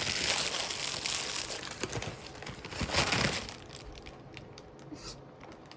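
Packaging crinkling and rustling as it is handled and pulled open, loudest about three seconds in, then dying down to a few light rustles.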